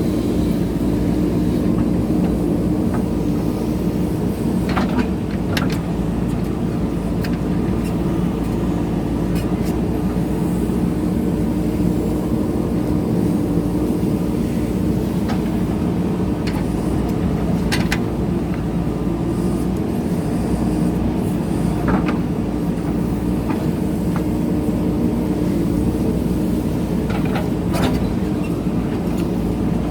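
JCB backhoe loader's diesel engine running steadily under working load, with a few sharp knocks and clanks from the digging, including pairs about five seconds in and near the end.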